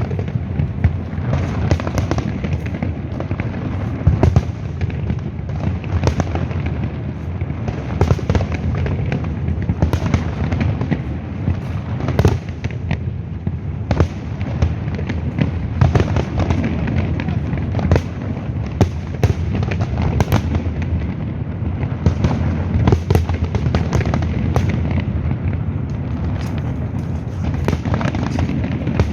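Fireworks display going off continuously: many sharp bangs and crackles, several a second, over an unbroken low rumble of bursts.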